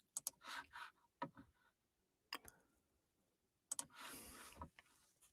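Faint scattered clicks, four or so a second or more apart, with a short soft rustle near the end, in an otherwise quiet small room.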